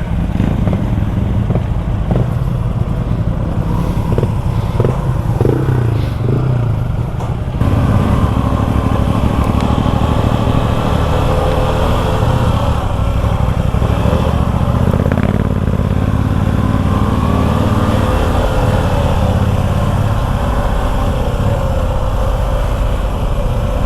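Motorcycle engine running while riding over a rough track, with some knocks and rattles in the first several seconds; about a third of the way in the sound changes abruptly to a steadier engine drone.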